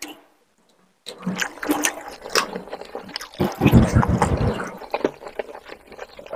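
Close-miked wet eating sounds: chewing and mouth smacks on a handful of curry-soaked rice and chicken eaten by hand. They start about a second in as a run of sharp, wet clicks, loudest a little past the middle.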